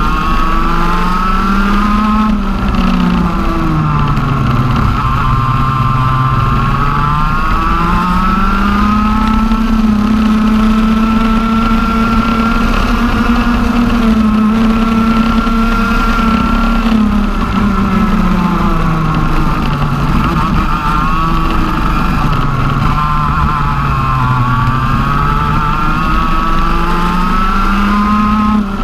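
TM OK-class 125 cc two-stroke kart engine on a CRG KT1 chassis, lapping a circuit under load. The revs climb on the straights and drop for the corners several times, with one long high-revving pull in the middle.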